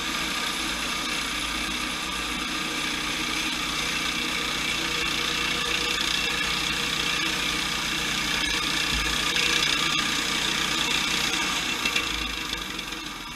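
Sawmill running steadily while milling a log, a dense mechanical din with many steady tones; it grows slightly louder in the middle and eases off near the end.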